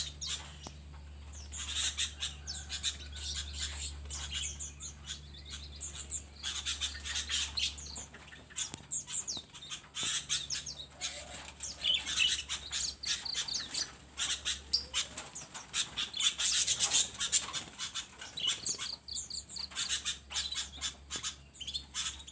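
Many small cage birds calling at once in an aviary: a dense, continuous chatter of short chirps and squawks, busiest a little past the middle.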